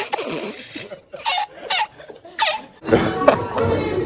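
People laughing in short bursts. About three seconds in, background music and voices come in abruptly.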